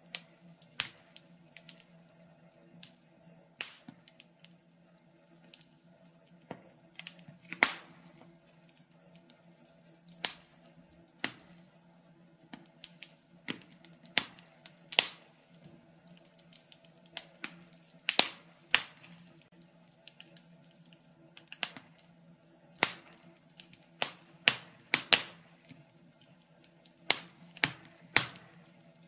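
Wood fire in a fireplace crackling, with irregular sharp pops and snaps of varying loudness, some close together, over a faint steady low hum.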